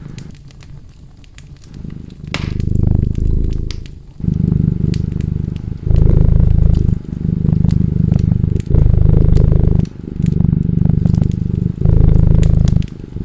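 A cat purring close up in rhythmic pulses, one to two seconds each with short breaks between, softer for the first couple of seconds. Over it, a fireplace crackles with sharp pops and snaps.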